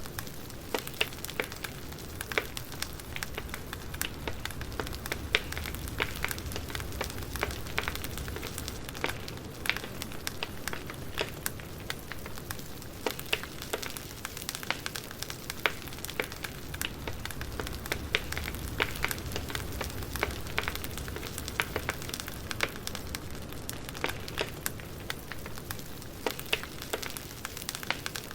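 Firewood burning with a crackling sound: frequent irregular sharp pops and snaps over a steady low rumble.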